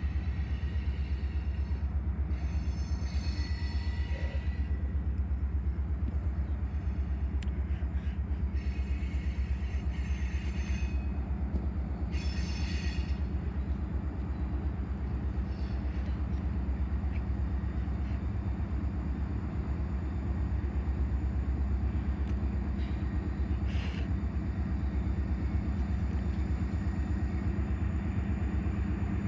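Freight train rolling past with a steady low rumble, and a few brief high-pitched squeals over it.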